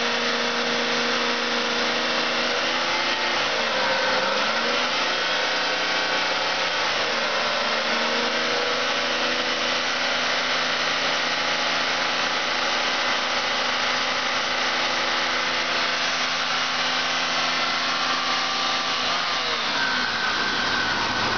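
A 3.8-litre GM 3800 Series II pushrod V6 running at idle with a steady hum and a hissy whir over it. Its pitch dips and comes back twice in the first eight seconds and shifts again near the end.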